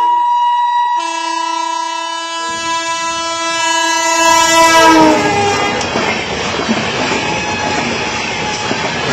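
Electric locomotive of the Tejas Rajdhani Express sounding its horn: a blast ending just after the start, then a long blast from about a second in that drops in pitch as the locomotive passes at about five seconds. Then comes the loud rush and clatter of the coaches going by at speed.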